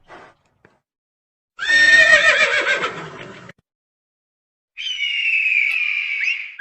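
Horse whinnying: a quavering call that starts about one and a half seconds in and falls in pitch over about two seconds. A second, steadier high call follows near the end.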